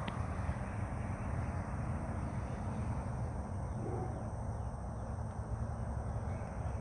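Outdoor ambience: a steady low rumble and hiss, with a few faint bird calls near the end.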